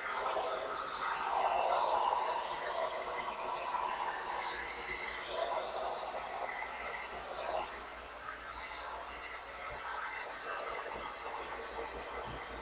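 Xlinder 1875W infrared hair dryer blowing hot air while drying wet hair, a steady rushing airflow whose level swells and dips.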